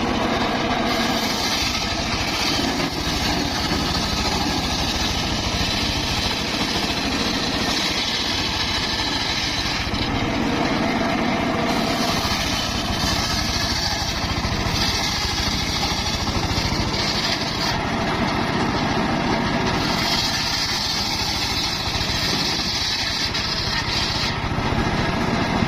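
Engine-driven circular saw running steadily while cutting timber. A harsher high-pitched cutting noise comes and goes in stretches of one to a few seconds as the blade works through the wood.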